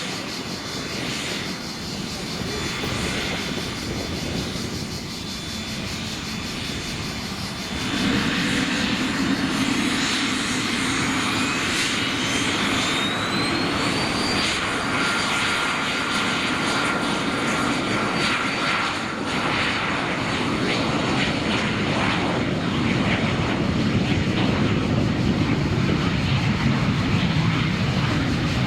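Cessna Citation CJ3's twin Williams FJ44 turbofans whining at low power, then spooling up about eight seconds in: the whine climbs in pitch for a few seconds and holds steady at takeoff thrust over a loud rushing roar, as the jet goes to full power for its takeoff.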